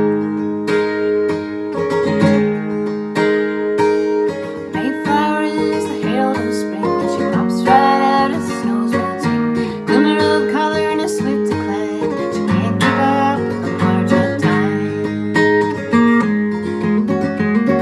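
Acoustic guitar playing the instrumental introduction of a folk song, picked and strummed chords.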